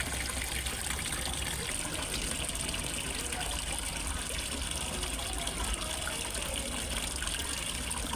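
Steady trickling and splashing of a small waterfall falling into a fish pond.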